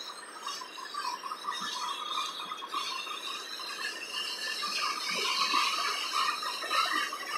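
Freight train tank cars rolling past, their steel wheels rattling on the rails with some squealing.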